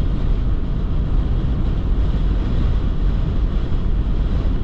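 Steady road and wind noise inside a Toyota 4Runner driving at highway speed in strong wind, a low rumble that keeps an even level.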